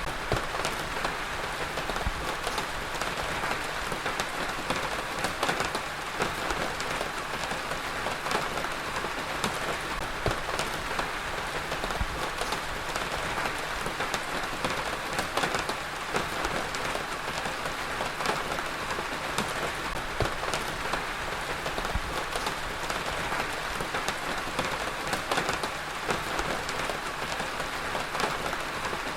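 Heavy rain falling steadily, a dense even hiss with the patter of many individual drops striking a surface.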